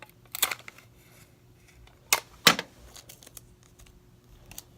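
Hands working sticky tape and card on a model rocket: a few short, sharp snaps and rustles, the two loudest close together a little over two seconds in.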